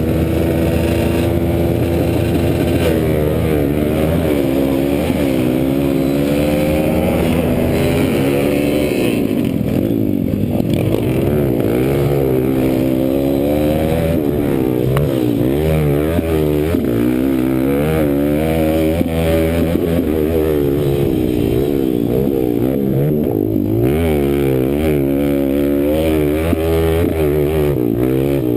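Kawasaki KLX140's single-cylinder four-stroke engine racing on a motocross track, its pitch rising and falling over and over as the throttle is opened and closed through shifts and corners.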